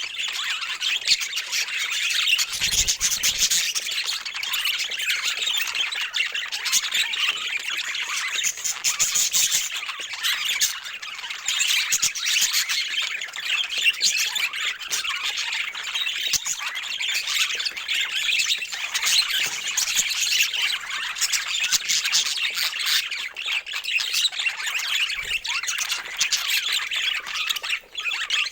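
A flock of budgerigars chattering without a break: a dense mix of many overlapping chirps, warbles and squawks.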